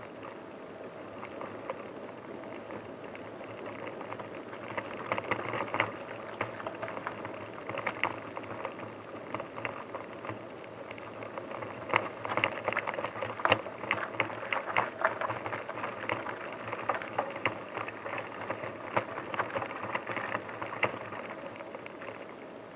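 Bicycle ridden over a rough forest track, with irregular crackles and rattles that grow busier partway through.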